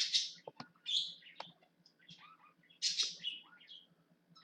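Bird chirping in short high bursts every second or so, with a few sharp clicks in between.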